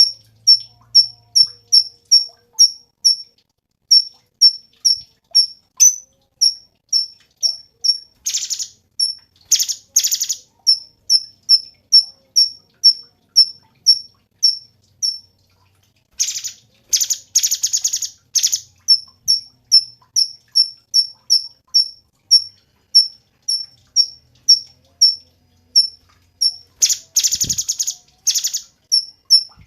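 Cucak cungkok bird calling: a steady run of short, high chips, about two or three a second. Louder buzzy rattling trills break in three times.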